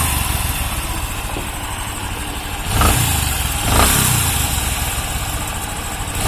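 Bajaj Discover 125's single-cylinder four-stroke engine running, with the throttle lightly blipped twice about three and four seconds in. A growling 'ghar ghar' noise comes from inside the engine, which the mechanic takes for a broken internal bearing.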